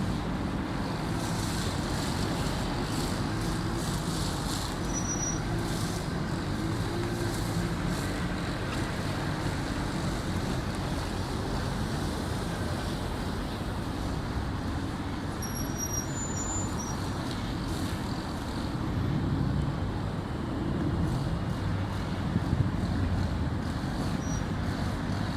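Steady low engine rumble mixed with outdoor traffic-like noise, swelling slightly near the end, with a few faint short high chirps.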